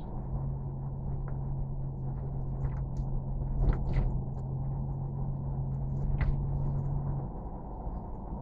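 A motor running with a steady low hum over a rumbling background. A few sharp clicks or knocks come about four seconds in and again about six seconds in. The hum stops about seven seconds in.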